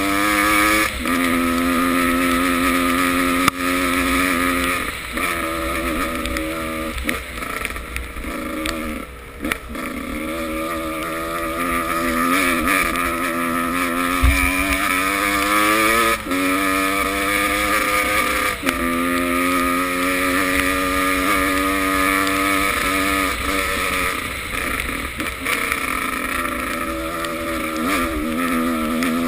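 Motocross bike engines revving hard, their pitch climbing and then dropping back again and again as the riders work the throttle and shift gears.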